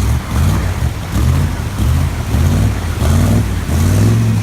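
An engine running with its pitch rising and falling in quick repeated surges, about two a second.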